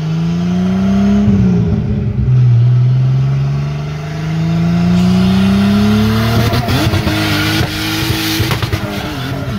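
Turbocharged Nissan L28 straight-six accelerating hard through the gears. The engine note climbs, drops briefly at a gear change about a second in, then rises steadily for about four seconds. After that it holds a steadier pitch under a loud rushing hiss.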